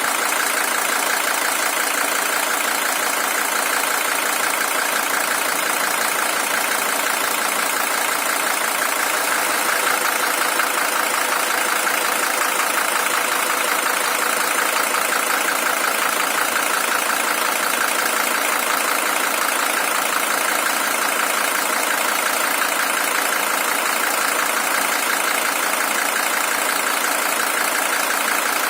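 Mercedes-Benz OM617 five-cylinder diesel engine in a W123 300TD idling steadily, a high-mileage original engine with about 620,000 km on it.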